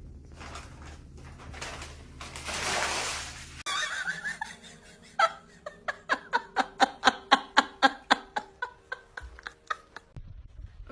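A brief rushing noise, then a person laughing hard in a rapid string of ha-ha bursts, about five a second, that trails off.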